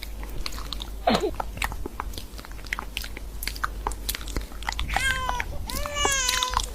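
A cat chewing crunchy food, a run of small crunches, then high, wavering cries starting about five seconds in.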